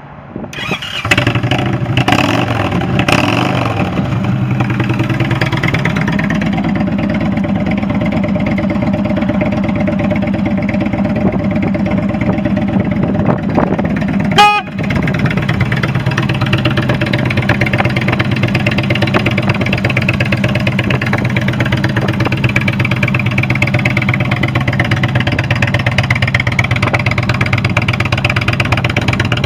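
2017 Indian Chief Vintage's Thunder Stroke 111 V-twin engine fires up about a second in and is blipped a couple of times. It then idles steadily, with a brief sharp click-like break about halfway through.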